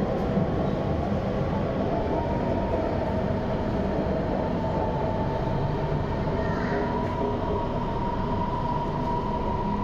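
Shenzhen Metro Line 11 train heard from inside the car while running: a steady rumble of wheels on track with a held electric whine from the traction motors.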